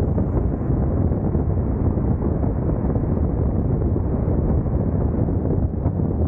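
Steady low wind rush buffeting the microphone of a camera on a moving Honda NC750X motorcycle at speed, with road and engine noise blended into it.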